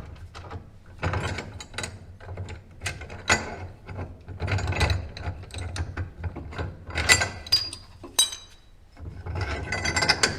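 Ratchet clicking in short irregular spurts, mixed with metal knocks and scrapes, as the tool cabinet is jacked and blocked up and its disintegrated caster wheel is taken off.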